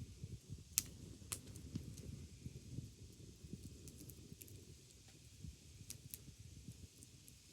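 Wood fire crackling: scattered sharp pops and snaps, the loudest about a second in, over a low steady rumble.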